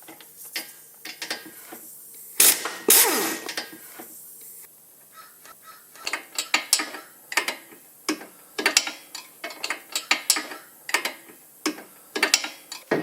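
Ratchet wrench clicking in steady strokes, about three clicks a second, as bolts are undone to take off the rear brake caliper. Two loud metal knocks come about two and a half seconds in.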